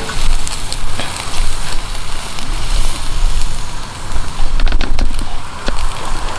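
Wood campfire crackling, with a cluster of sharp pops about five seconds in, over a steady low rumble.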